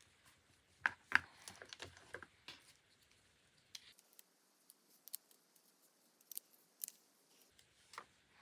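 Scissors cutting paper: two sharp snips about a second in, a quick run of smaller snips and paper rustles after them, then scattered light clicks.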